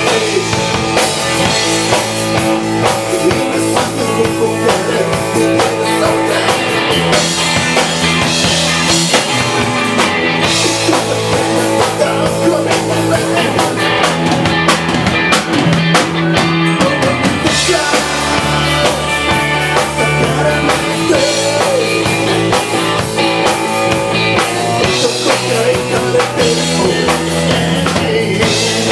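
A live rock band playing, with a drum kit and electric guitar, loud and continuous.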